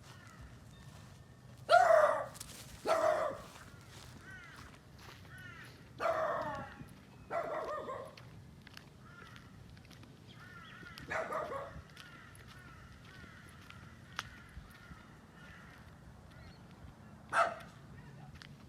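An animal gives six loud, harsh calls of about half a second each; the first four come in two pairs. Faint quick chirps of small birds run underneath.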